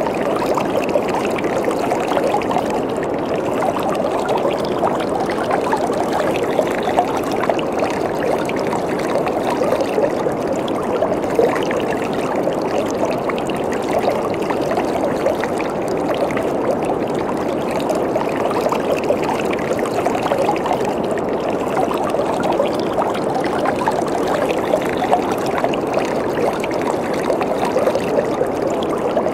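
Waterfall: water falling and splashing in a steady, even rush, with fine bubbling crackle throughout.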